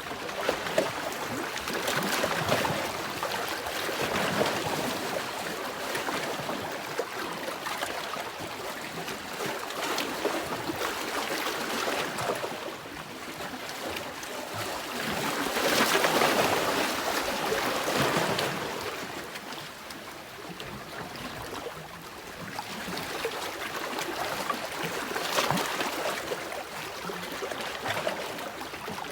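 Sea waves washing in on a shore, the surf swelling and fading every few seconds, with the biggest swell about halfway through.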